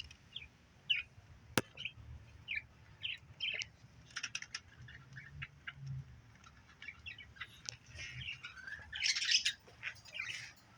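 Budgerigars chirping and chattering in short, scattered high chirps, busier about nine seconds in. A single sharp click comes about a second and a half in.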